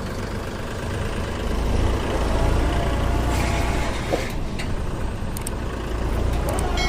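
Tractor diesel engine running with a steady low rumble, getting louder about two seconds in.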